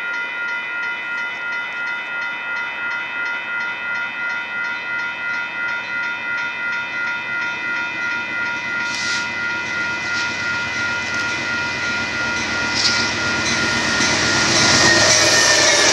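Railroad grade-crossing warning bell ringing in a steady, rapid rhythm. In the last couple of seconds the noise of an approaching train on the rails rises over it.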